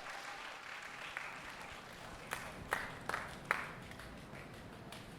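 Audience applause dying away after a live song, with four sharp knocks about two to three and a half seconds in.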